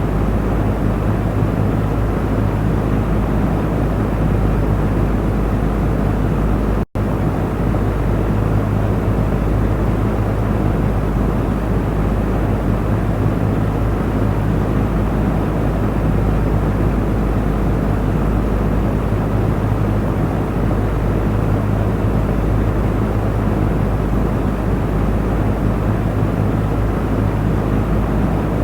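Electric fan running steadily: an even rushing of air over a low motor hum. It cuts out for a split second about seven seconds in.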